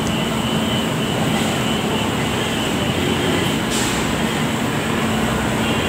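LRT-1 light-rail train moving past a station platform: a steady running noise of wheels on the track with a low hum and a faint high whine. There is a brief rise in hiss about four seconds in.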